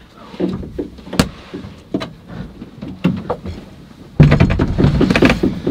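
A nail being worked and levered out of a wooden wall: scattered knocks and clicks of the tool on the nail, then about four seconds in a sudden loud run of rapid creaking as the nail is pulled.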